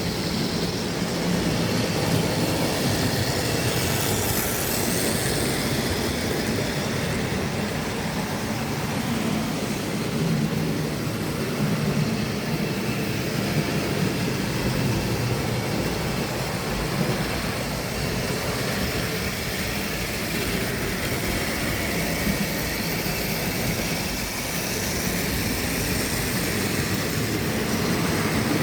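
Tri-ang OO-gauge model train running on its track: a steady whirr of the electric motor and wheels on the rails.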